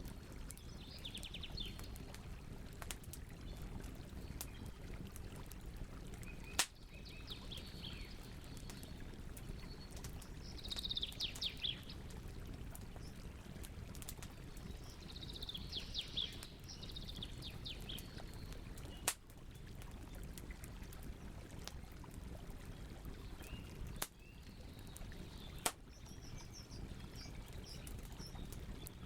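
Campfire burning with a steady low rustle and a few sharp pops from the wood. Songbirds sing in the background in several short bursts of rapid, high trilled notes.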